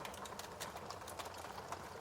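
Fire crackling in a fireplace: irregular small snaps and pops over a low steady hiss.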